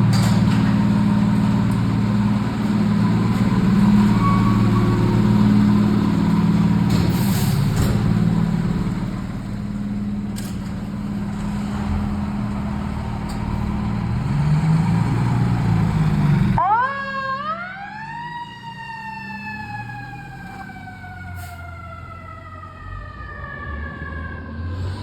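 Fire apparatus diesel engines running loudly. About 16 seconds in this gives way to a fire-truck siren that winds up quickly and then slowly coasts down in pitch, the rise-and-long-fall of a mechanical siren, before winding up again near the end.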